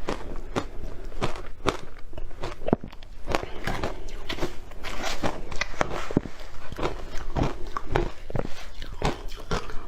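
Close-miked crunching as something hard and brittle is bitten and chewed, with sharp irregular crunches about twice a second.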